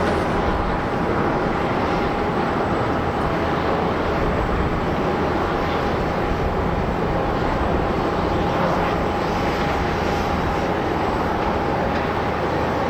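Jet airliner engines running during a landing, a steady rushing noise with a thin, even whine throughout.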